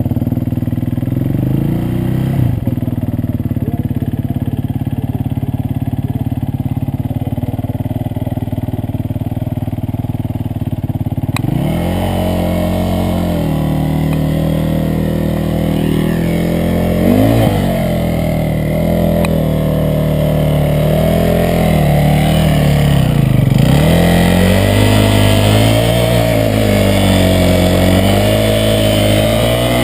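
Enduro motorcycle engine running steadily at low revs, then from about a third of the way in revving up and down repeatedly, with several rises and dips in pitch.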